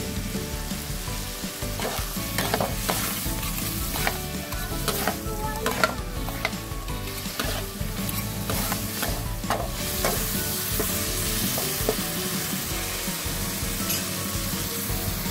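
Shrimp sizzling in hot oil in a metal wok, stirred with a metal ladle that scrapes and clinks against the pan many times, most of all through the middle; near the end only the steady sizzle remains.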